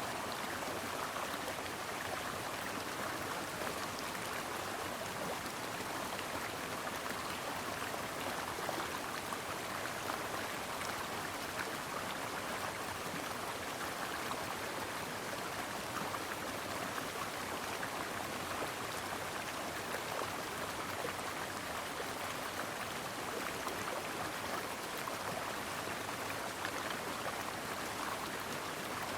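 Brook water flowing steadily over rocks, an even rushing babble.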